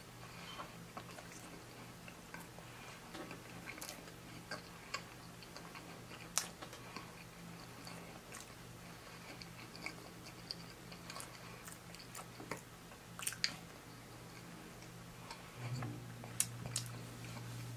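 Close-miked chewing of a mouthful of food, with irregular wet clicks and smacks. A steady low hum runs underneath and grows louder near the end.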